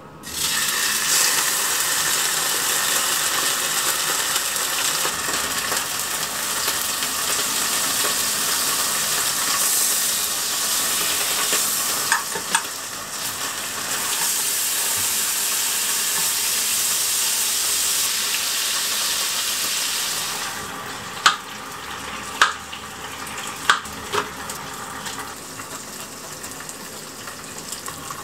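Flounder fillets frying in oil and butter in a frying pan: a steady sizzle that drops to a softer one about two-thirds of the way through, with a few sharp clicks after that.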